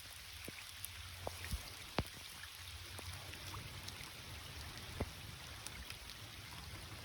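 Rain falling: a faint, steady hiss with scattered sharp ticks of single drops, the loudest about two seconds in and again about five seconds in.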